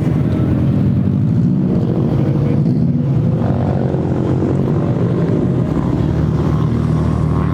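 A car engine running with a deep, rapidly pulsing exhaust note, steady and loud.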